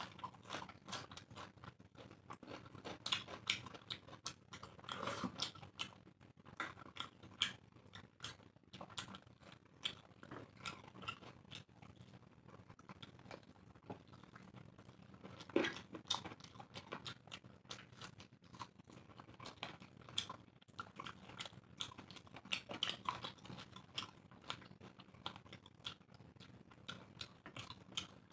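Eating sounds of two people eating chicken curry and rice by hand: chewing and mouth noises in a steady, irregular run of short clicks.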